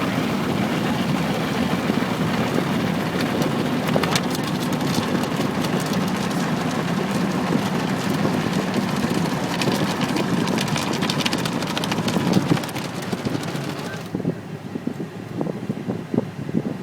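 Ryko Softglass automatic car wash working over the car, heard from inside the cabin: a steady rush of water and brushing against the body. It eases off about twelve seconds in and falls quieter about two seconds later, leaving scattered drips and taps.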